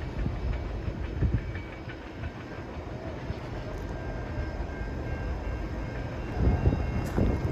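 A train rolling past: a steady low rumble of wheels on rail with irregular clacks and knocks, getting a little louder near the end.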